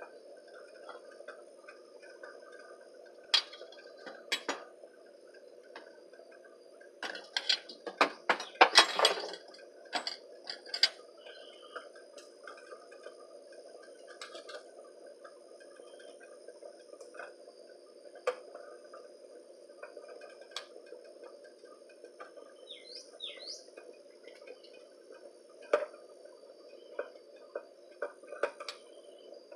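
Metal utensil clinking against a cooking pot: single clinks here and there and a quick flurry of them about a quarter of the way in, over a steady low hiss. A bird gives two short falling chirps past the middle, and a steady high insect drone runs underneath.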